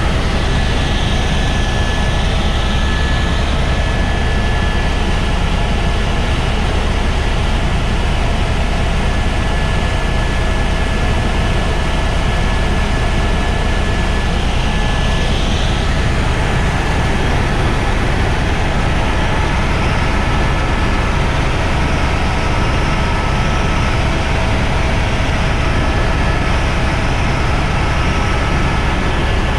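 Helicopter engine and rotor running: a loud, steady drone with a few faint, steady whining tones above it.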